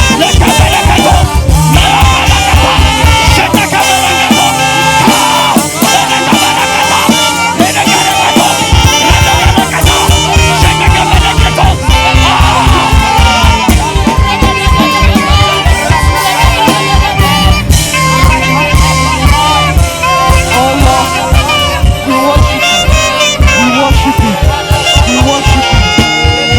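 Live gospel band music with a saxophone playing a winding lead melody over a driving kick-drum beat. The kick drum drops out for a few seconds early on, then comes back in.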